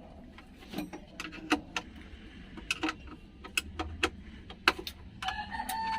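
Irregular sharp clicks and clinks, about a dozen scattered through, with a short pitched whistle-like sound near the end.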